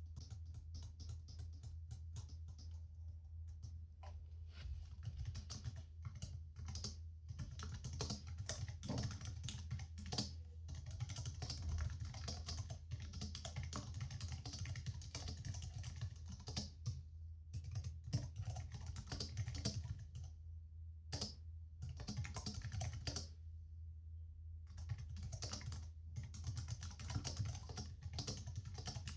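Typing on a computer keyboard: quick runs of key clicks broken by a few short pauses, over a steady low hum.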